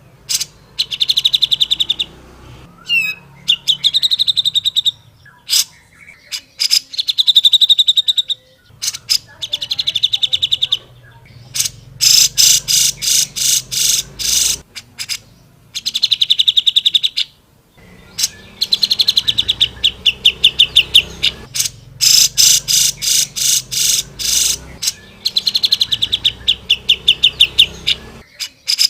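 Cucak jenggot (grey-cheeked bulbul) singing loudly in repeated phrases of rapid chattering notes, each ending in a fast high trill, with short pauses between phrases.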